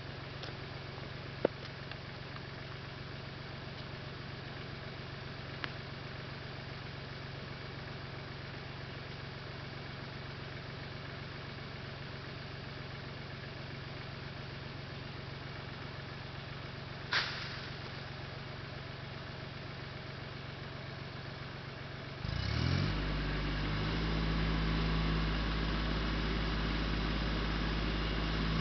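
Mahindra Max 24 compact tractor's diesel engine running steadily, with a short sharp knock about seventeen seconds in. About twenty-two seconds in the engine becomes much louder, with a deep rumble.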